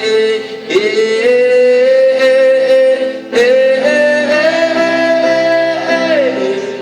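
Live band performance with a male voice holding long wordless notes. The voice steps up in pitch twice and slides back down near the end, over a sustained band accompaniment.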